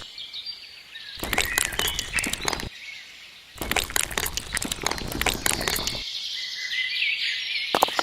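Two bursts of rapid clicking rattle, each about two seconds long, with birds chirping in the background.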